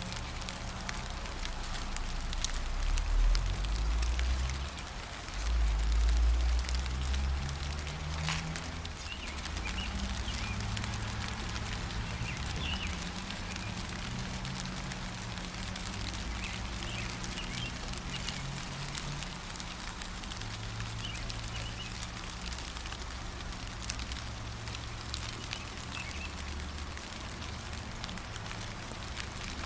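Steady rain falling, with faint scattered bird chirps through most of it. Two low rumbles, about three and six seconds in, are the loudest sounds.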